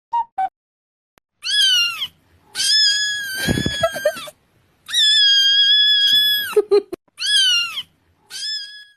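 A cat meowing five times in a high, drawn-out cry, the middle two calls long and held, the first and last short; two brief short blips come just before.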